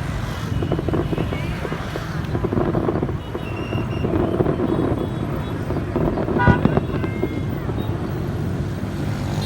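Steady outdoor crowd and street noise with scattered short sharp knocks and a brief horn-like tone.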